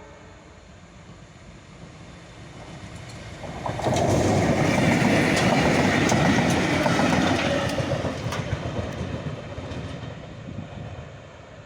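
A train rolling past with wheels clacking over the rail joints. It suddenly grows loud about four seconds in, with sharp clicks for several seconds, then fades away.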